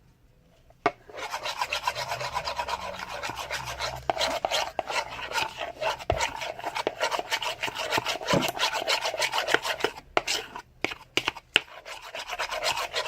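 Spoon stirring a glue and liquid-soap slime mixture in a bowl: a rapid, continuous scraping and rubbing that starts about a second in, with a brief pause about ten seconds in.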